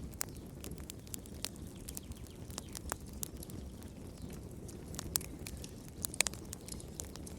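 Wood fire crackling in a fireplace: irregular sharp pops and snaps over a low steady rumble of burning, with a brief cluster of louder pops about six seconds in.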